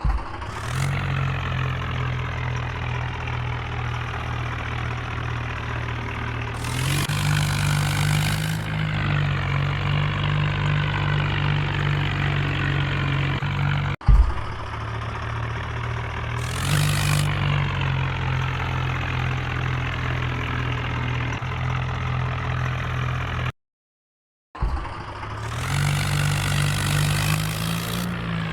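Tractor engine running steadily, revved up briefly three times, with abrupt cuts between shots and a one-second dropout near the end.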